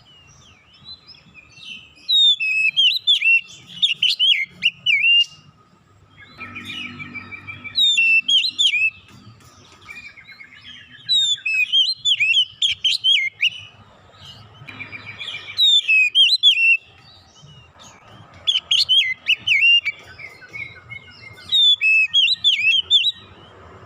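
Oriental magpie-robin (kacer) singing: loud bursts of rapid, varied whistles and chirps, about six phrases separated by short pauses.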